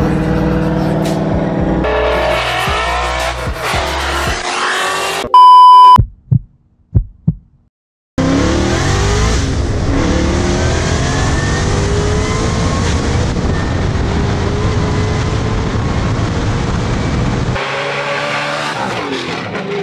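Roush-supercharged Ford Mustang GT's 5.0 V8 accelerating hard, its pitch rising again and again through the gears, with music underneath. About five seconds in, a loud steady beep sounds briefly, followed by a couple of seconds of silence.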